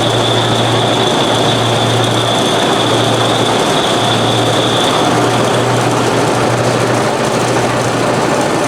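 Chance Rides miniature train running along its track, a steady low engine drone over the rolling noise of the cars. A thin high whine runs with it and stops about five seconds in.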